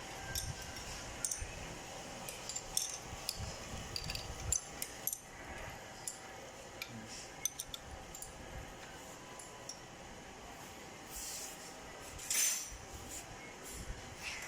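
Irregular light metallic clicks and clinks from hand work on a Mitsubishi 4D32 diesel's fuel feed pump while air is bled from the fuel system, with a short hiss near the end.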